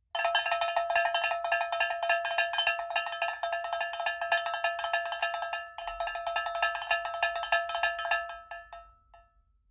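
A metal utensil rapidly beating against a ringing metal bowl, about ten strikes a second over the bowl's steady ring, dying away near the end.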